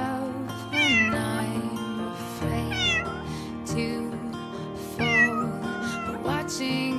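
A small kitten meowing, high cries that rise and fall, about every two seconds, over soft background music.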